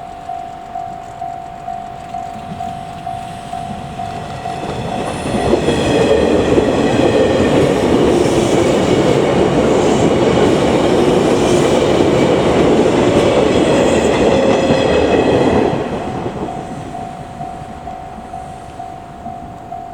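Level-crossing bell ringing about twice a second while the 485-series 'Hana' electric train passes for about ten seconds, its wheels clattering over the rail joints and drowning the bell. As the train moves off the bell rings on.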